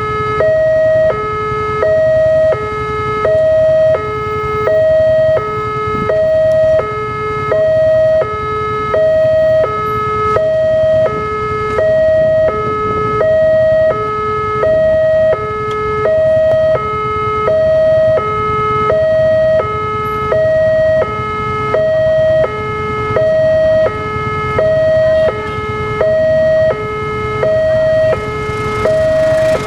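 Electronic two-tone warning alarm of an Indonesian railway level crossing, alternating between a higher and a lower tone about once a second, sounding while the crossing is closed for an approaching train.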